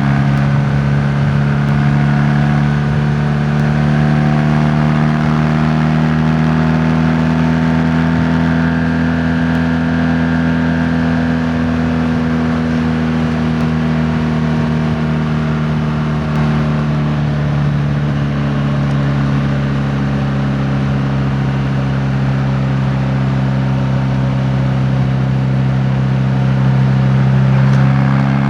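A vehicle engine running steadily at road speed, its hum rising a little in pitch and then easing back, under steady road and wind noise.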